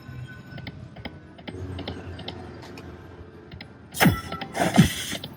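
Video slot machine game sounds: light clicking and ticking as the reels spin, then two quick downward swoops about four seconds in.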